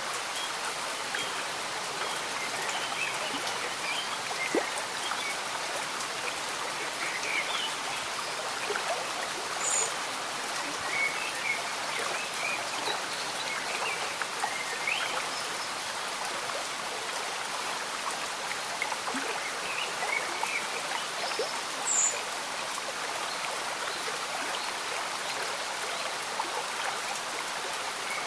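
Steady gentle stream bubbling under light rain, with scattered brief high plinks of water throughout.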